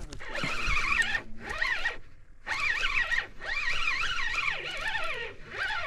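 Fishing reel being cranked, whirring in several spells with short pauses, its pitch rising and falling with the speed of the retrieve, as a hooked fish is wound in.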